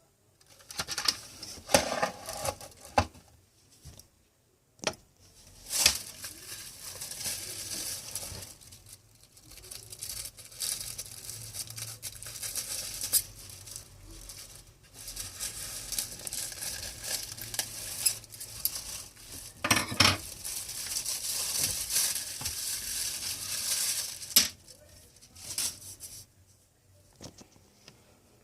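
Hands handling plastic and packaging: crinkling and rustling in long stretches, broken by sharp plastic clicks and knocks, a louder knock about twenty seconds in.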